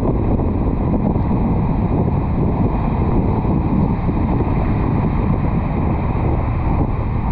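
Steady wind buffeting the microphone of an action camera mounted on the roof of a moving car, a loud, even low rumble.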